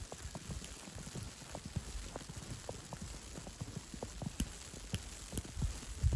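Footsteps in fresh snow at a walking pace: a run of soft low thumps about twice a second, with small clicks over a faint hiss.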